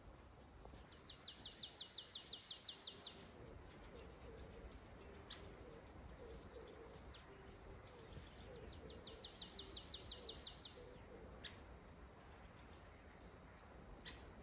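A songbird singing twice, each phrase a few high notes followed by a fast trill of about a dozen falling notes, with a few single chirps in between.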